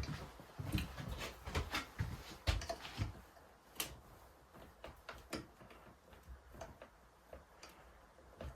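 Duckbill pliers working the sheet-metal exhaust louvers of a Stihl MS170 chainsaw muffler, stretching them open: irregular metallic clicks and knocks, thickest over the first three seconds, then sparser.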